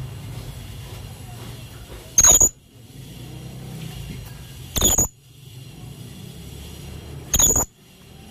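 Blue-crowned hanging parrot (serindit) giving three short, shrill, high-pitched calls about two and a half seconds apart, over a low steady hum.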